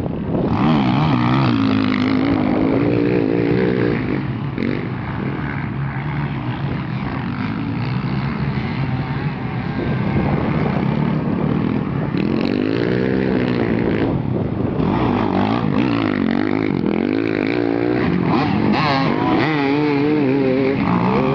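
Several motocross bikes racing, their engines revving up and down continuously, with one rising and falling in pitch as it passes about two-thirds of the way through.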